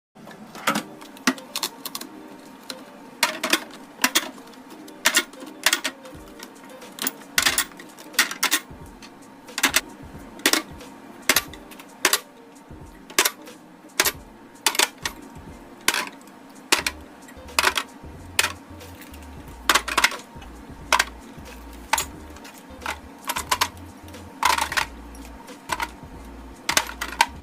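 Hard containers and items clacking and clinking as they are set down in a fridge being restocked: a long run of sharp clicks and knocks, about one or two a second, over a faint steady hum.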